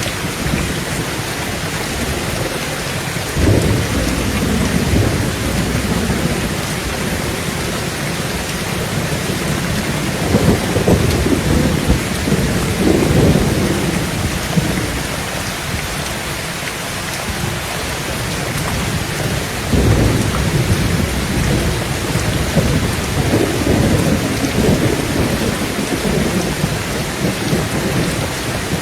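Heavy rain beating steadily on a tin tent roof, with rolls of thunder rumbling in three times, each lingering for several seconds.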